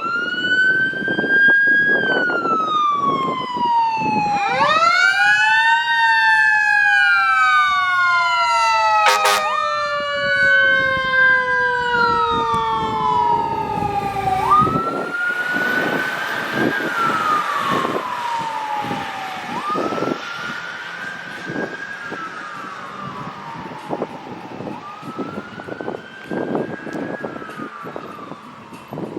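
Fire engine siren wailing: each sweep rises quickly and falls away slowly, repeating about every five seconds. A brief blast comes about nine seconds in, and the sound grows fainter toward the end as the engine moves off.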